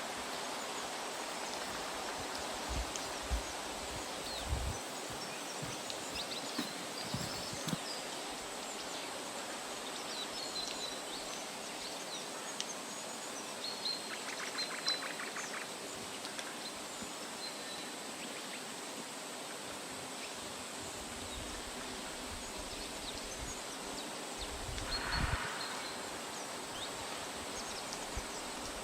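Outdoor ambience: a steady rushing hiss with a few short bird chirps scattered through it and a quick trill about halfway. Occasional low thumps.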